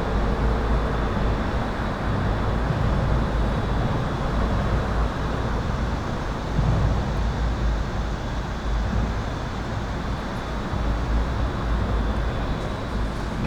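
Continuous highway traffic heard from beneath an overpass: a steady deep rumble of passing vehicles that swells and eases, with a faint, steady high-pitched electrical buzz over it.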